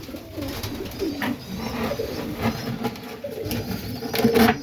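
Serbian Highflyer pigeons cooing in the loft, low and pulsing, with a brief louder noise near the end.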